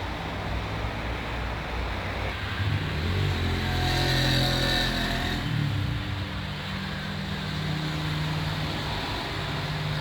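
A vehicle engine running with a steady hum. Its pitch steps up and swells about three seconds in, then drops back to a steadier hum.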